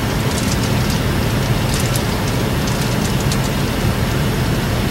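Steady low hum of a Chevrolet's engine idling, heard from inside the cab, with a few faint high ticks.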